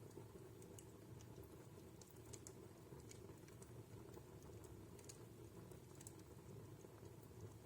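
Faint wood fire crackling in a fireplace: scattered small sharp snaps, about one or two a second, over a steady low rumble of the burning logs.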